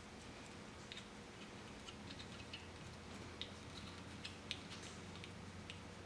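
Faint, irregular light clicks and ticks of small parts being handled as wires are fitted to terminals, over a low steady hum.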